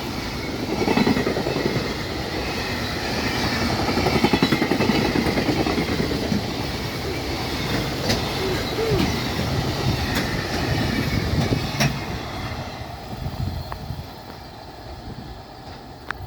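A freight train hauled by an EF510 electric locomotive rolling past: a dense, rapid clatter of wheels on the rails that fades away after about twelve seconds.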